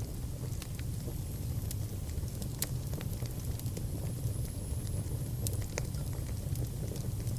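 Wood fire burning in a fireplace: a steady low rumble with scattered sharp crackles and pops, and a faint thin high whistle for a few seconds in the middle.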